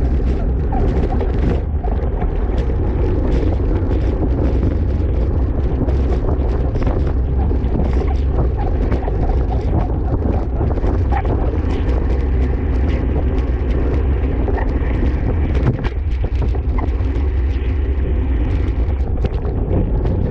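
Wind rushing over the microphone of a camera riding along with a racing cyclist: a loud, steady low rumble with many small ticks and clicks.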